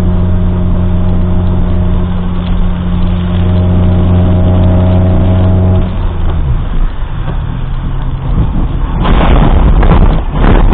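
Vehicle noise recorded by a dash cam: a steady low drone for about six seconds, which stops. Rougher, louder noise with no clear pitch follows near the end.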